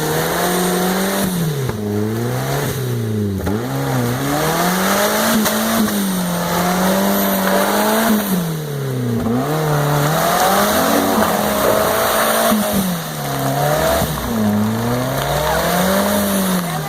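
A 4x4 off-road vehicle's engine revving up and easing off again and again, its pitch rising and falling every two to three seconds.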